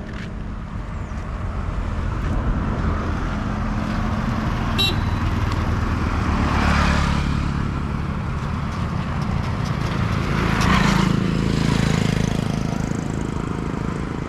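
Road traffic: a vehicle engine running steadily with road noise. Two vehicles pass, one around the middle and one about three quarters through, and a short high horn toot sounds about a third of the way in.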